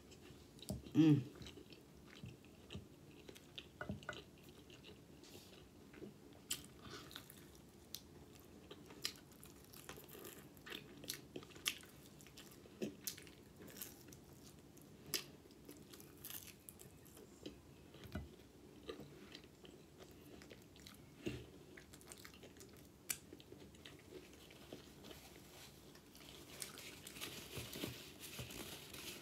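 Person chewing and biting into fried chicken wings, with scattered short crunches and wet clicks, the loudest bite about a second in. A soft rustle joins in near the end.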